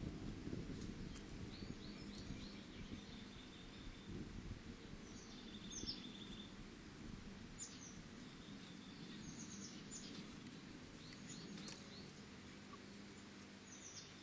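Faint scuffing and rustling from a restless barn owl owlet moving about, stomping and flapping in its nest box, with short, high chirps of small birds heard in little runs throughout.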